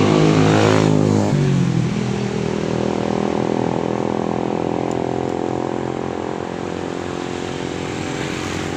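A motor vehicle passing close by, its engine note loudest at the start and dropping in pitch about a second in as it goes past, followed by a steady, quieter engine hum.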